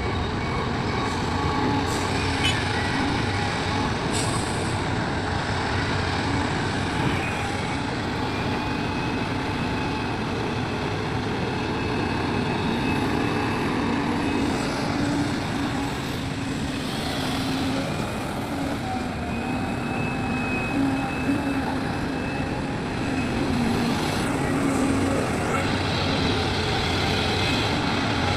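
Heavy diesel excavator running steadily under load, its hydraulics giving a held whine as it digs and loads soil into a dump truck. A few short hisses come in the first quarter.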